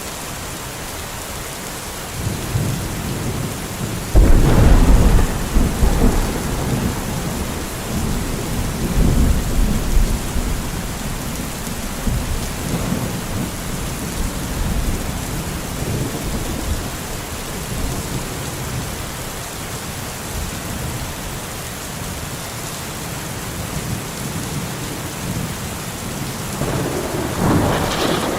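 Steady heavy rain with thunder: a low rumble builds, then a loud thunderclap about four seconds in rolls away over several seconds, with further rumbles and another swell of thunder near the end.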